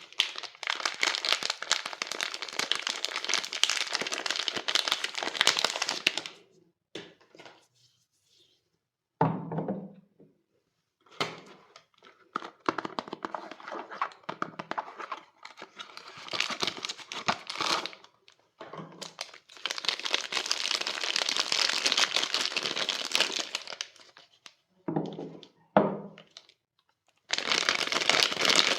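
Wrapping on bars of soap being crinkled and pulled open, in long stretches of crackly rustling broken by pauses. There are a few soft thunks, one about nine seconds in and two close together near the end.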